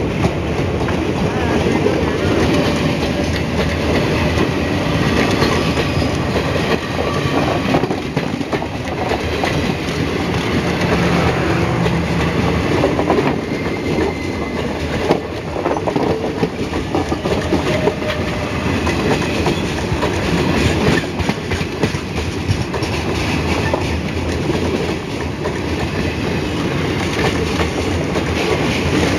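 Blue Indian Railways passenger coaches passing close by: a loud, steady rumble of steel wheels on rail, crossed by a rapid clatter of wheels over the rail joints.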